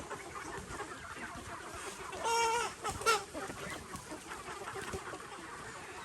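A flock of egg-laying chickens clucking, with one louder drawn-out call about two seconds in and a short sharp call just after.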